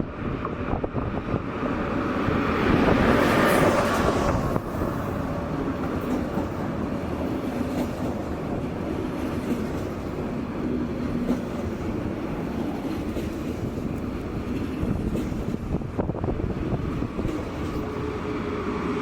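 A train moving along the platform track: a steady rumble of wheels on rail with a faint hum, loudest about three seconds in.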